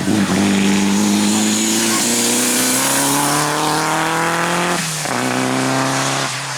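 Toyota Celica rally car engine under hard acceleration, rising in pitch through the gears with quick upshifts about two seconds in, near five seconds and again near the end.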